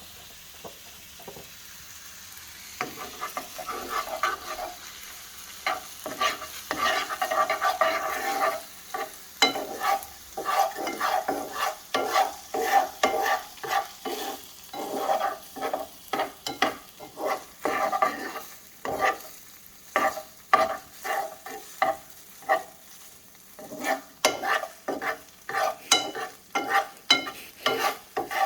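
Rice with chicken and soy sauce sizzling in a hot oiled pan while a utensil stirs and scrapes it. The sizzle is steady at first, and from a few seconds in, quick uneven scraping strokes come one after another.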